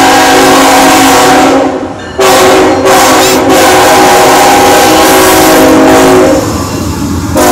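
CSX coal train's locomotive horn sounding loud, steady chords: one long blast that breaks off just under two seconds in, then a second long blast that ends about six seconds in, with the train's low rumble underneath.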